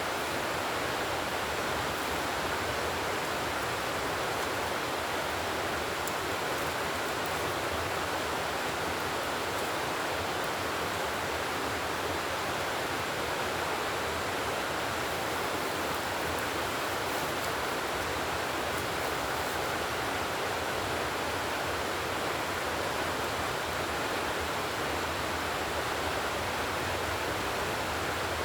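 Steady, even rushing noise, unchanging throughout, with a few faint high ticks.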